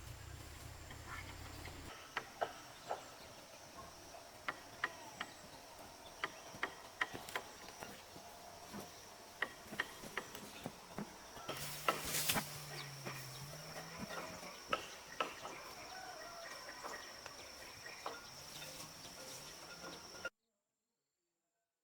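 Scattered light taps and knocks over a steady, high-pitched insect drone, with a brief cluster of louder knocks about halfway through. The sound cuts off suddenly near the end.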